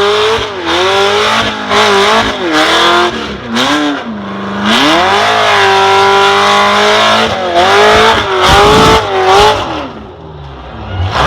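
Off-road truck engine revving hard over and over, its pitch swinging up and down with the throttle and held high for a couple of seconds midway, then easing off near the end.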